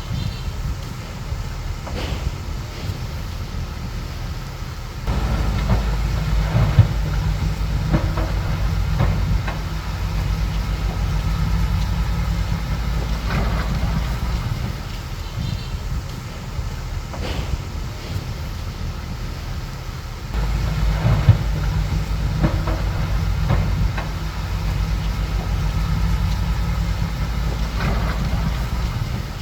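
Bulldozer's diesel engine running, twice pulling harder for several seconds, about five seconds in and again about twenty seconds in, as if working under load while pushing soil. A few sharp clanks sound over it.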